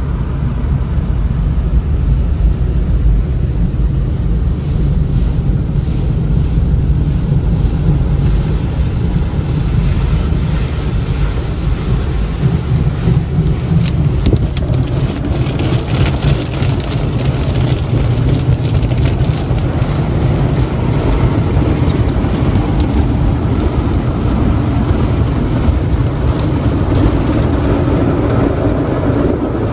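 Automatic tunnel car wash working over the car, heard from inside the cabin: a steady low rumble with water spraying onto the body as the cleaning stage starts after the foam. The hiss of the spray grows stronger from about twelve seconds in, then eases.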